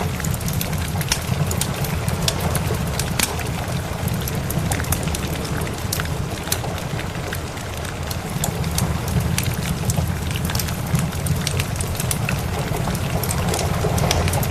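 Steady rain with a wood fire crackling in many sharp pops over it, and a steady low rumble beneath.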